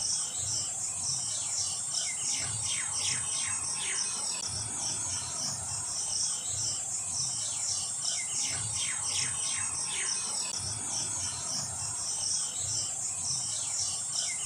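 Insects chirping in a steady, rapid pulse over a thin high drone. A bird gives a run of quick, falling notes three times.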